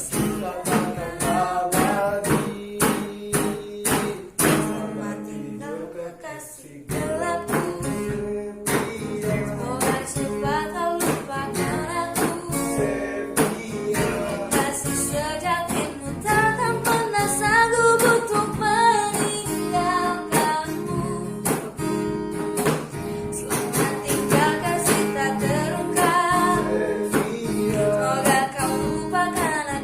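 Singing accompanied by a strummed guitar: a cover song performed live.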